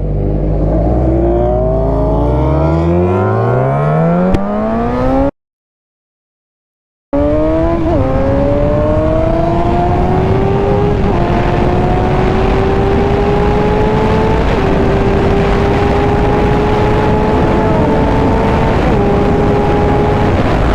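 Motorcycle engine accelerating hard, its pitch climbing fast, then pulling on through higher gears with three upshifts where the pitch steps down and climbs again. Wind rushes over the microphone throughout. The sound cuts out to dead silence for about two seconds, five seconds in.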